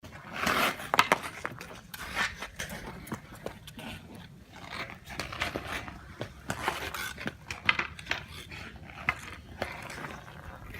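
Ice hockey play: sticks clacking against the puck and ice, with short scrapes, in an irregular series of sharp knocks.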